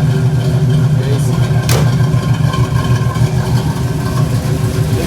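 Cammed 305 small-block Chevy V8 running steadily, with one sharp click about two seconds in.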